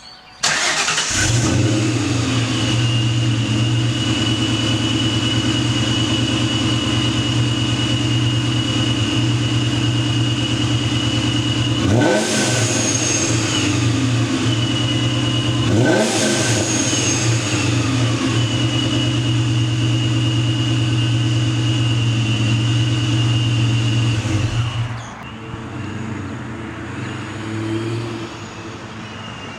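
Ford 4.6-litre two-valve V8 of a 1999–2004 Mustang GT on Mac long-tube headers, Mac Prochamber mid pipe and Flowmaster mufflers, cold-started and running at a steady fast idle. It is blipped twice, about twelve and sixteen seconds in, and gets much quieter about 25 seconds in.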